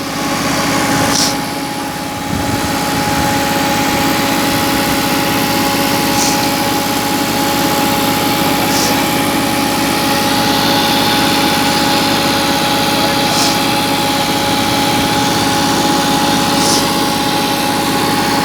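Tractor engine running at a steady speed, an even drone with constant tones and no revving.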